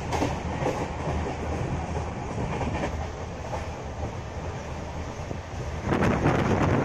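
Passenger train running on the track, its wheels clattering over the rail joints, growing louder about six seconds in.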